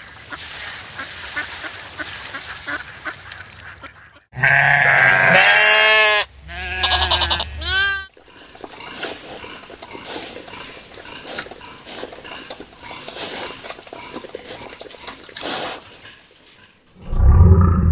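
Farm animals calling in a run of short clips: a few seconds of loud, repeated calls with many falling pitch sweeps about four seconds in, set between longer stretches of quieter background noise with small clicks.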